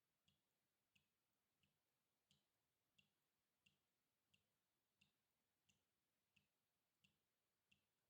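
Faint water drops falling one at a time in a steady, even rhythm, about three drops every two seconds, each a short plink.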